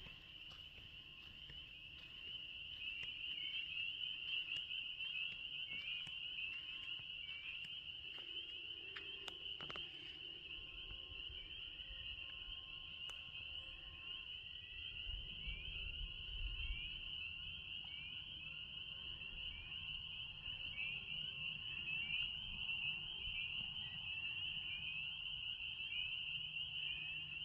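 A steady, high-pitched chorus of small calling animals, many repeated chirps blending into one continuous trill. A low rumble swells about halfway through.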